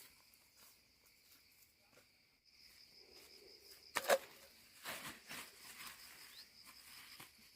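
Insects chirring steadily in a high, pulsing drone, with a sharp knock about four seconds in and a few softer knocks after it.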